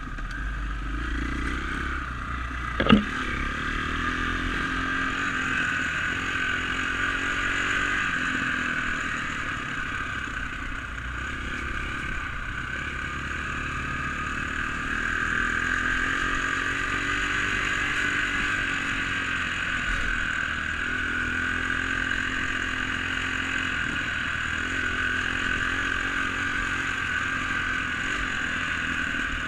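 Dirt bike engine running while the bike is ridden, its pitch rising and falling with the throttle. A single sharp knock about three seconds in.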